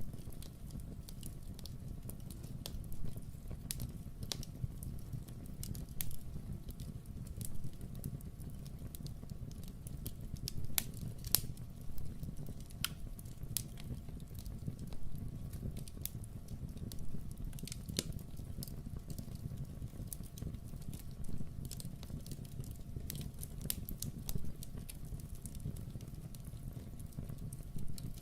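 Wood fire crackling in a fireplace: a steady low rumble with irregular sharp pops and snaps, a few of them louder.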